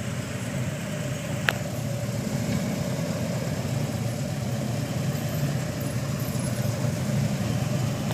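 Escort motorcycles' engines running steadily at low speed, with one sharp click about a second and a half in.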